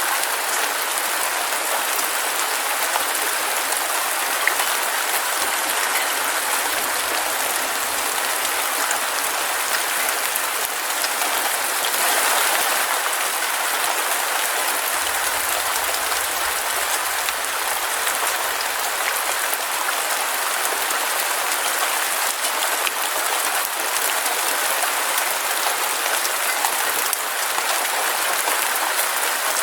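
Heavy rain falling steadily: a dense, even hiss of countless drops pattering.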